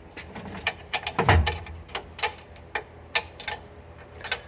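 Irregular sharp metal clicks and clinks of tools and a steel toolbox drawer being handled, about a dozen in all, with a duller knock about a second in.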